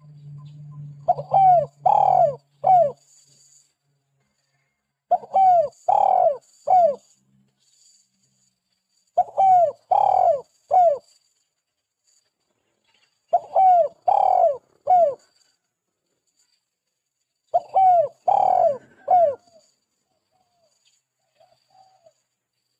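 Spotted dove (tekukur) cooing: five repeated three-note phrases, one about every four seconds. This is its 'kuk 2' song type.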